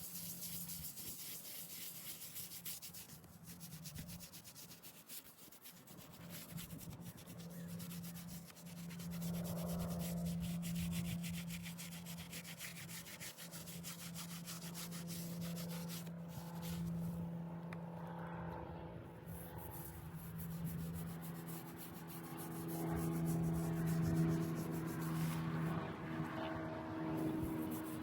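Headstone being scrubbed, a steady rapid rubbing over stone. Under it runs a low steady hum that takes on several pitched tones and grows louder in the last third.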